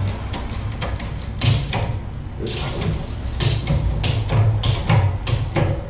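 Bicycle drivetrain turned by hand during a rear derailleur adjustment: the chain and derailleur click and tick in quick irregular runs as the chain moves across the rear cogs, over a steady low hum.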